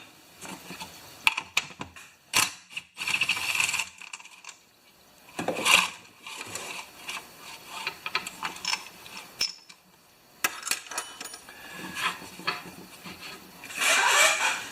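Scattered clicks, knocks and scrapes of a Honda HR214 lawn mower's recoil starter parts being handled and turned on the bench, with a few short bursts of rustling.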